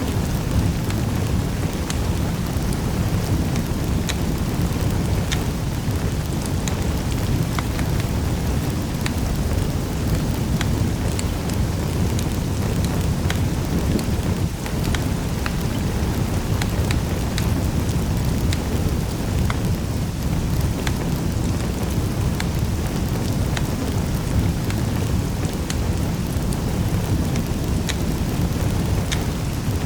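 Wood fire crackling in a fireplace: a steady low rushing noise with many small, sharp crackles and pops scattered throughout.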